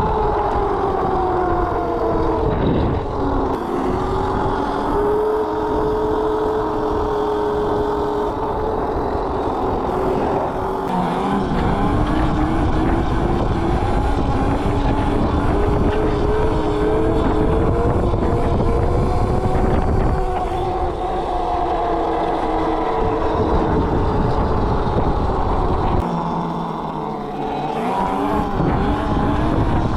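Electric mini bike's motor whining while riding, its pitch rising and falling slowly with speed, over wind rumble on the microphone. The wind rumble drops away briefly near the end.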